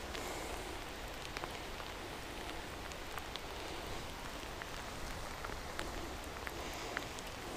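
Steady rain falling on lake water, with scattered sharp ticks of single drops striking close by.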